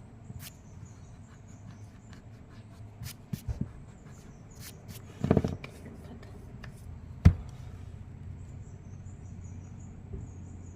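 Eating sounds: small clicks and scratches from food and utensils being handled, with a short louder burst about five seconds in and a single sharp knock about seven seconds in.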